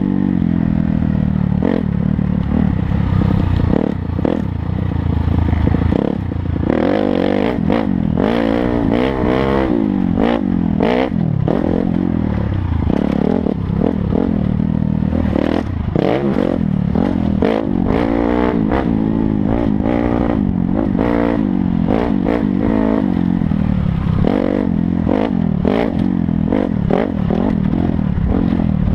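Dirt bike engine revving up and down as it is ridden off-road, with frequent clattering knocks throughout.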